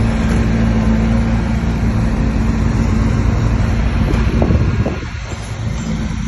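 Bulldozer's diesel engine running hard under load, going up in revs at the start, with a few knocks and clanks about four seconds in before it eases off slightly near the end.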